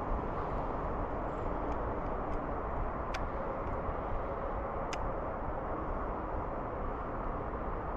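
Steady rumble of road traffic, with a few sharp clicks.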